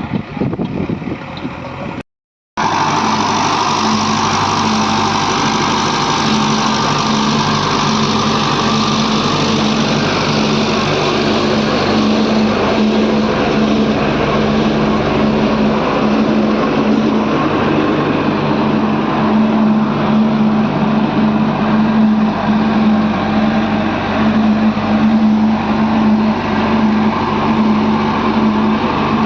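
Heavy diesel engine of earth-moving machinery running steadily at an even speed. The sound drops out briefly about two seconds in, then the engine comes back.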